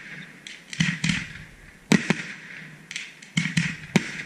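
Fireworks aerial shells bursting one after another: about half a dozen sharp bangs at uneven spacing, each trailing off in a short hiss.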